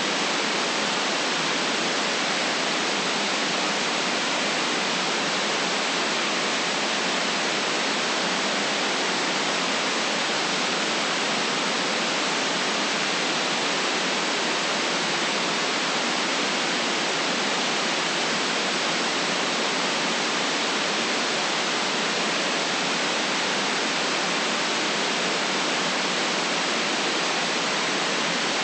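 Steady synthetic white noise: an even, unchanging hiss with no deep rumble and no highest treble.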